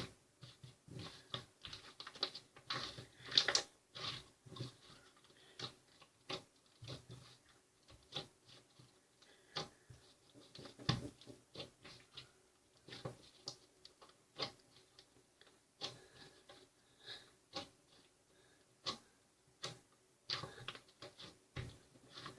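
Irregular light clicks and taps, coming in small clusters, at times several a second.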